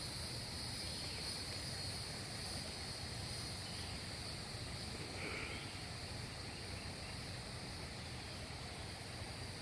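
Steady high-pitched chorus of insects over a low, even background hiss, with a faint brief chirp about halfway through.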